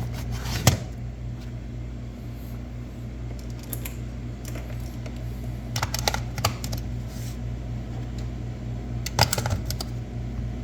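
Scattered plastic clicks and taps from plugging in and handling a battery charger over a steady low hum, a single click a little under a second in and short clusters of clicks around six and nine seconds in. The charger gives no beep, its speaker having been removed.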